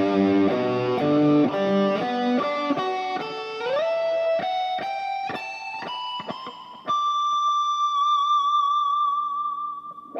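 1985 Tokai SD-40 electric guitar playing a climbing single-note line, with a slide up partway through, ending on a long held high note with vibrato that fades out.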